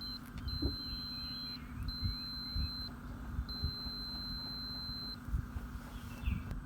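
Electronic beeper giving a steady high-pitched tone: a blip, then three long beeps of about one to two seconds each with short gaps, over soft low knocks.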